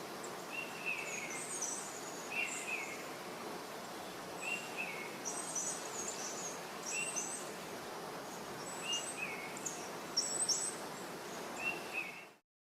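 Wild birds calling over a steady background hiss: one bird repeats a short falling call every second or two, and another gives higher chirps between them. The sound cuts off suddenly near the end.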